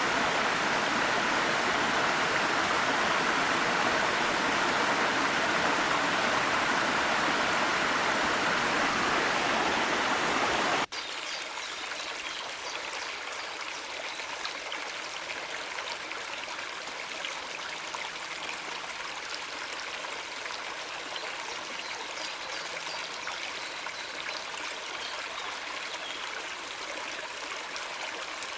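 Small mountain stream and waterfall rushing steadily. About eleven seconds in it cuts abruptly to a quieter, lighter trickling of water.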